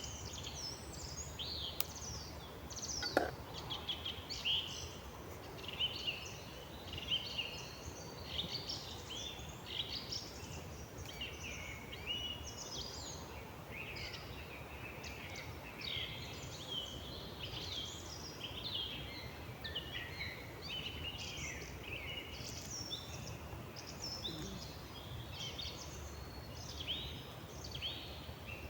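Several songbirds singing together: a dense chorus of overlapping high chirps and short whistled phrases, with one faint click about three seconds in.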